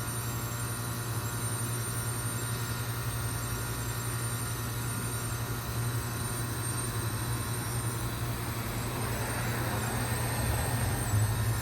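A 2005 York Olympian (Latitude 10) heat pump outdoor unit running through its defrost cycle with a steady low hum. A hiss builds about nine seconds in and the sound grows slightly louder.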